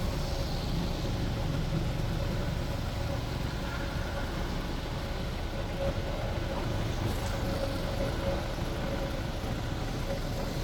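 A sightseeing bus's engine running with steady street traffic around it, and a faint steady whine throughout.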